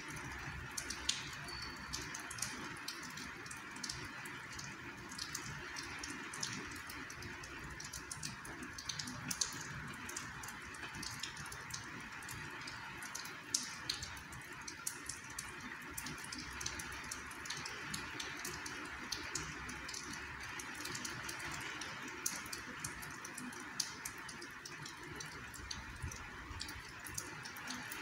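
Light rain falling steadily, with irregular sharp ticks of nearby drops.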